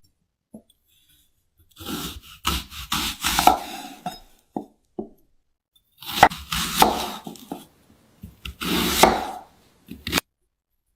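A knife slicing through brittle, glass-like fruit: three crunching, crackling cuts, each lasting one to three seconds, separated by silent pauses.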